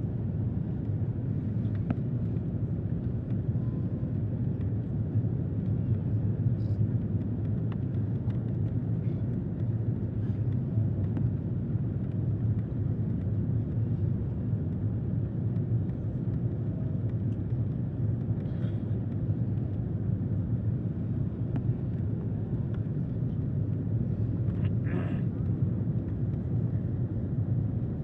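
Airliner cabin noise on the approach to landing: a steady, even low rumble of the engines and airflow heard from inside the cabin.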